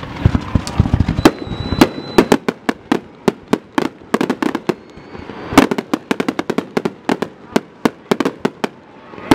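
Aerial fireworks shells bursting in a rapid, irregular string of sharp bangs, several a second, some louder than others.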